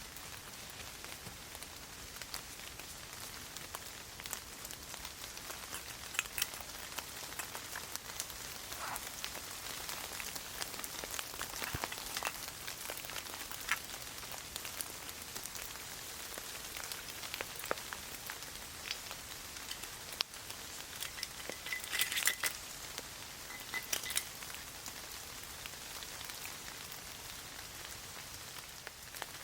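Steady rain falling, with many individual drops pattering and ticking on surfaces, among them a few louder, sharper drop hits about two thirds of the way through.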